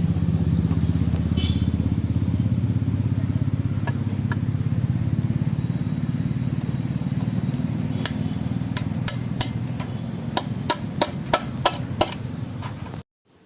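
Hammer blows driving a 6305 ball bearing into a motorcycle engine case: a run of sharp metal knocks, about three a second, in the second half. Under them a steady low mechanical drone with a fast pulse, which cuts off suddenly near the end.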